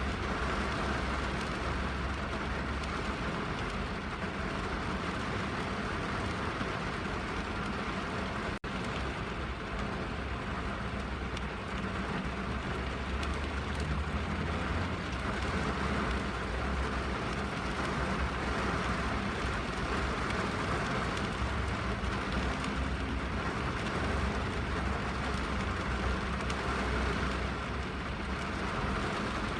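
Steady rain falling on a car's roof and windows, heard from inside the cabin, with a low drumming rumble under the patter. The sound breaks off for a split second about a third of the way in.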